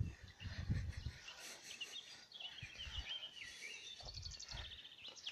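Songbirds singing, a warbling phrase in the middle and a fast high trill about four seconds in, over low rumbles on the phone's microphone, loudest at the start.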